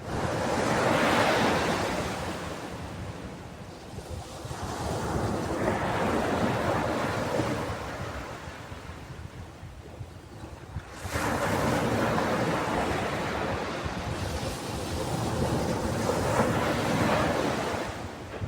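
Ocean waves breaking and washing up a beach, one after another. There are about four swells of surf, each a few seconds long, rising and falling.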